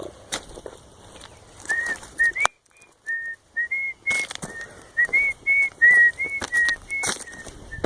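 A person whistling a tune in short, clear high notes that step up and down in pitch, starting about two seconds in, over scattered crunching footsteps on gravel.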